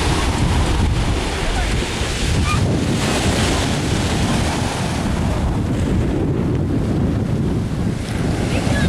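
Rough sea surf breaking and washing on the shore, with wind buffeting the microphone in a heavy low rumble. The hiss of the wash thins about six seconds in and swells again near the end.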